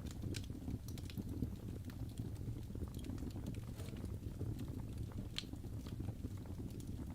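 Wood fire crackling, with scattered sharp pops over a steady low rumble; the loudest pop comes about five seconds in.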